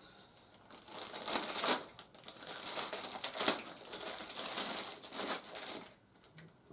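Plastic packaging crinkling and rustling in bursts as toy parts are handled and pulled out of a box, fading out about a second before the end.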